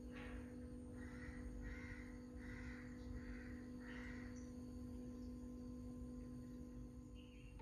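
A bird gives five short, harsh calls in quick succession, about two a second, over a steady low hum.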